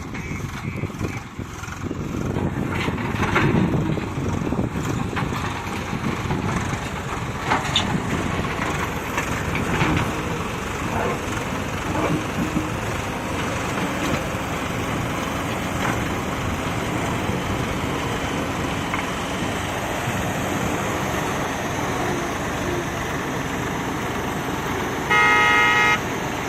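Heavy diesel machinery running steadily, with one loud horn blast of under a second near the end.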